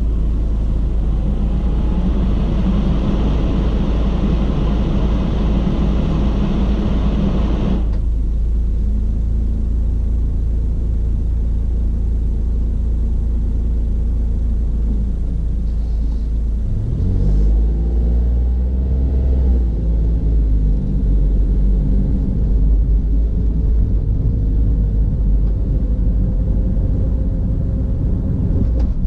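Car driving, heard from a camera mounted inside it: a steady deep rumble of engine and road. For the first eight seconds a broad hiss sits over it and cuts off suddenly; about seventeen seconds in, the engine's pitch rises as the car speeds up.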